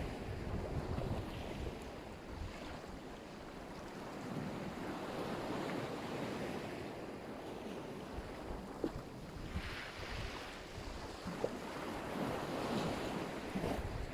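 Black Sea surf: waves breaking and washing up the shore in slow surges, hissier about two-thirds of the way in and again near the end, with wind rumbling on the microphone.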